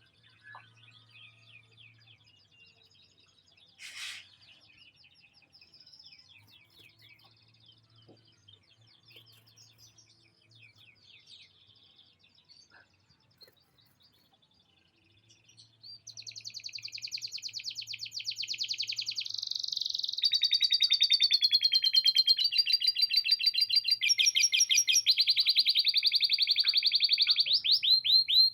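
Male canary singing. The song is faint, scattered twittering at first, then about halfway through turns into a loud, long run of rapid trills, changing to a new trill every few seconds. It is a canary trained on lovebird song, so its trills carry phrases copied from a lovebird.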